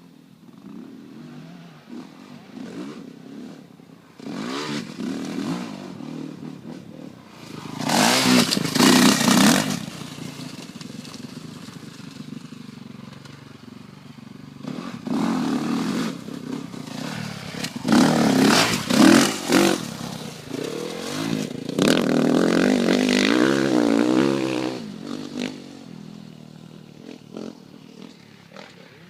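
A 2009 Honda CRF450R motocross bike's single-cylinder four-stroke engine revving up and easing off as the bike is ridden around the track. It is loudest as it passes close, about eight seconds in and again from about eighteen to twenty-four seconds, and fades between.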